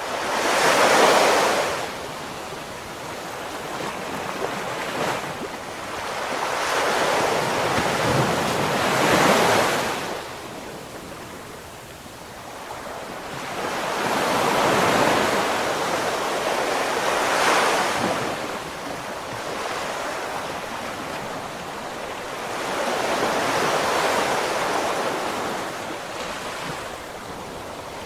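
Ocean waves breaking and washing up on a shore, about five surges several seconds apart, each swelling and then fading.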